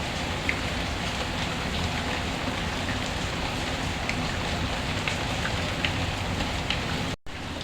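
Steady rain falling, an even hiss with scattered faint sharp ticks. The sound cuts out for an instant near the end.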